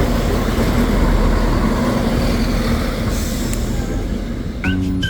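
A train running past, a steady noise of wheels on the rails that eases off slightly after about three seconds. Near the end, jingly music starts.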